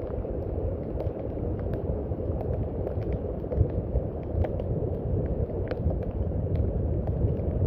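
Steady rain, a dense low rushing noise with scattered individual drops ticking sharply over it.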